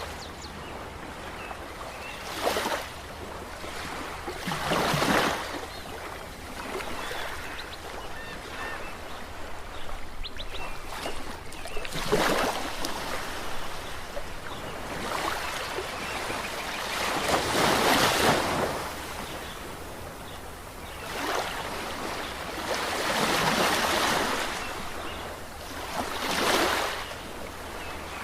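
Ocean waves breaking on a shore: a steady wash of surf with a louder wave surging in and falling away every few seconds, about eight times.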